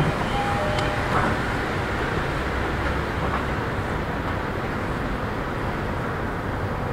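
Steady rumble and hiss inside a car of an E231 series 3000-subseries electric commuter train.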